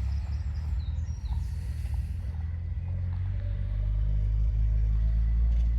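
Car engine running at low speed as a car drives slowly past, a steady low rumble that grows louder in the second half.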